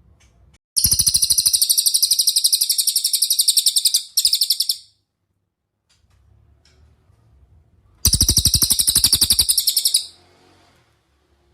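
Cililin songbird singing two long, loud trills of very rapid, high repeated notes, the first lasting about four seconds with a brief break near its end, the second about two seconds, a few seconds later.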